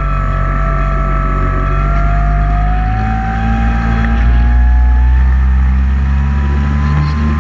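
Electric motors and propellers of a camera-carrying radio-controlled aircraft, a steady whine that drifts slowly up and down in pitch over a loud low hum.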